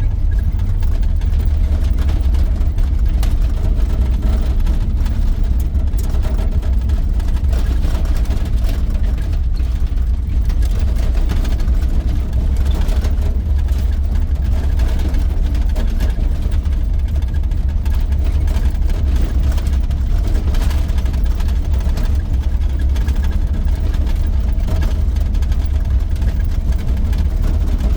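1983 GMC C2500 pickup truck cruising, heard from inside the cab: a steady, deep engine drone with road noise.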